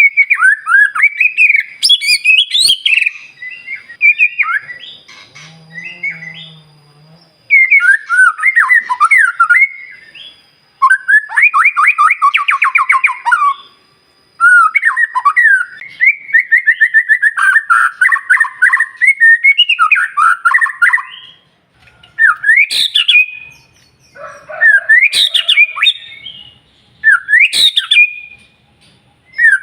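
White-rumped shama singing a loud, varied song in phrases broken by short pauses, with fast rattling trills and sharp upward-sweeping notes near the end.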